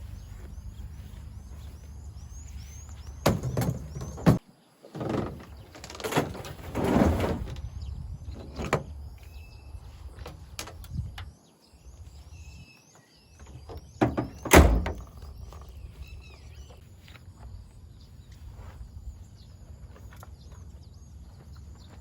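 A handful of loud knocks and thuds, bunched in the first two-thirds, over a steady low rumble, with a small bird chirping again and again.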